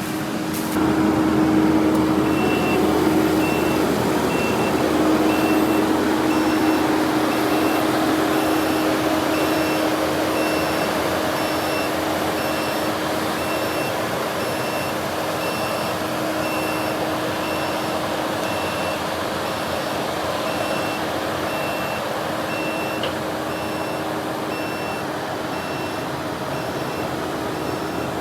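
Heavy vehicle's engine running steadily and picking up about a second in, with a backup alarm beeping a little faster than once a second while it reverses.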